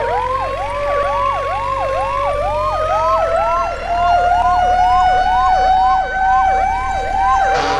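Electronic siren wailing in quick repeating sweeps, about two and a half a second, over a steady tone that slowly rises in pitch.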